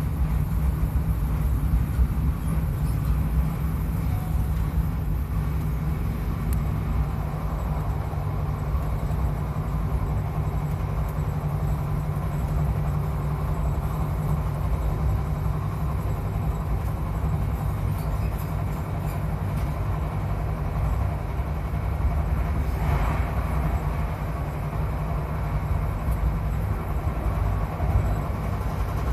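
Steady low rumble of a passenger train running at speed, heard from inside the carriage, with a brief swell of hiss about three-quarters of the way through.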